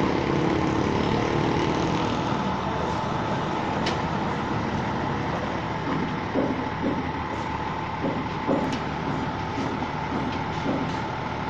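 Steady engine noise of a truck running, with a few brief knocks.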